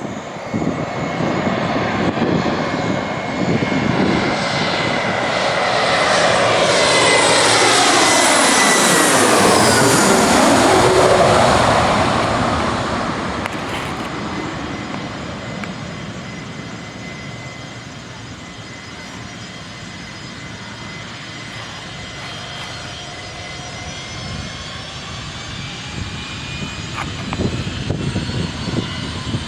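Embraer 175 regional jet's twin turbofans on a landing approach, passing close by. The whine grows louder, then drops steadily in pitch as the jet goes past, loudest about 8 to 11 seconds in, and then fades away.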